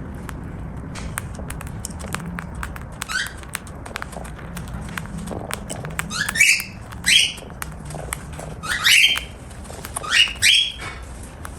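Cockatiel cracking and crunching seed in sharp little clicks, then calling out about five times in the second half, each call a short rising chirp.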